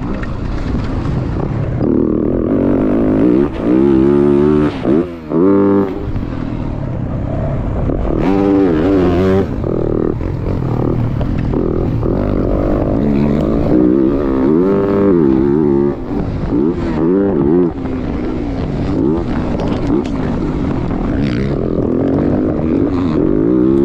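Motocross dirt bike engines revving hard through the gears, the pitch climbing and dropping again and again, with a brief lull about five seconds in.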